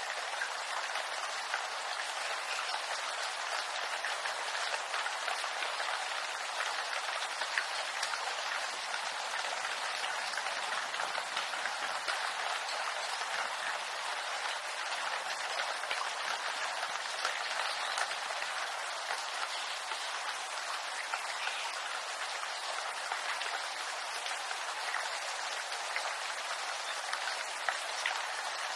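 Steady rain falling on bamboo leaves, a dense even patter of fine drops.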